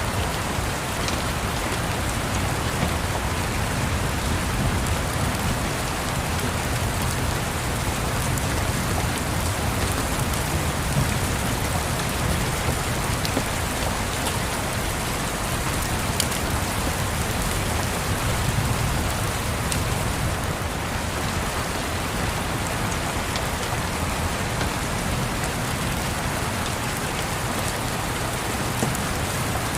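Steady rain, an even hiss of falling rain with scattered light clicks and a steady low rumble beneath.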